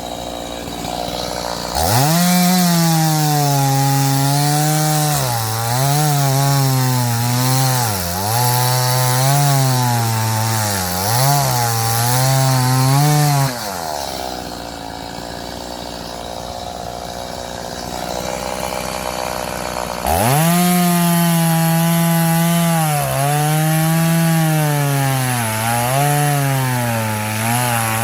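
Chainsaw cutting firewood: it revs up about two seconds in, its pitch dipping and recovering again and again as the chain bites into the wood. It drops back for several seconds midway, then revs up and cuts again.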